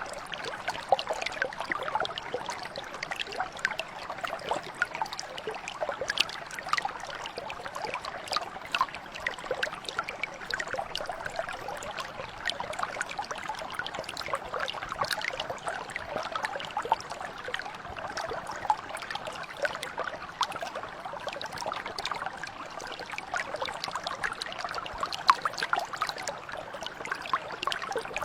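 Small stream or mountain brook flowing and trickling, a steady rush with many small irregular splashes and bubbling over stones.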